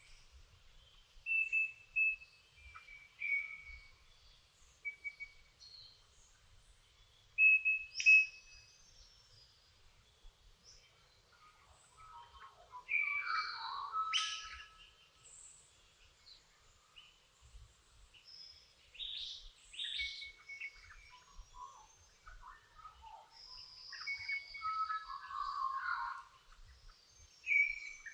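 Dawn chorus of several songbirds: clear, separate whistled notes for the first several seconds, then busier warbling and chirping phrases with quick falling sweeps, in two spells.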